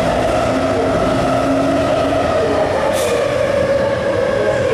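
MTR SP1900 electric train at the platform, giving a loud, steady hum and whine of several held tones. A short sharp hiss comes about three seconds in.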